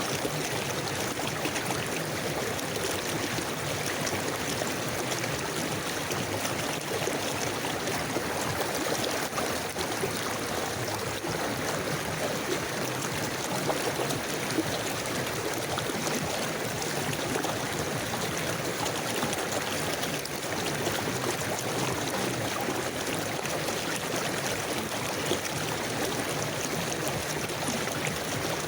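River water flowing steadily over stones, a continuous rushing and babbling with no breaks.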